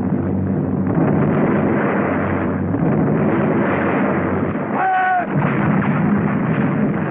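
Continuous din of artillery fire and explosions over a low rumble, heard on an old, muffled film soundtrack. About five seconds in, a brief higher-pitched tone rises and falls through the noise.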